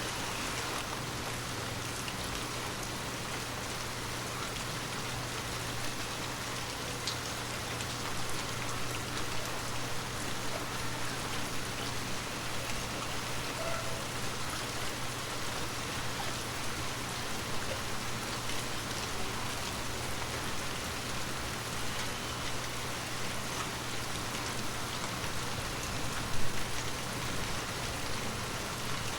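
Heavy rain falling steadily, a dense hiss of many drops with small individual drop taps. There is a single brief louder hit near the end.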